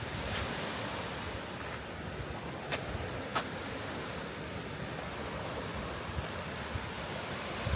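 Wind on the microphone over sea surf, a steady rushing noise, with two short clicks around the middle.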